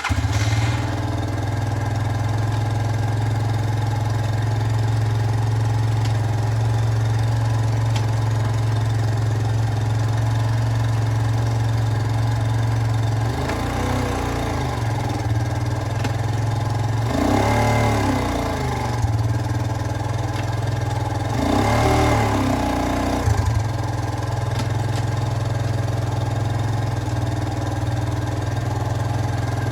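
Jianshe JS200GY's 200cc air-cooled four-stroke engine running steadily. It rises in pitch and falls back three times, about halfway through.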